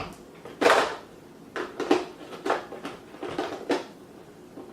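Plastic parts of a robot vacuum being handled. There is a louder scrape-like sound just under a second in, then a string of short plastic clicks and knocks.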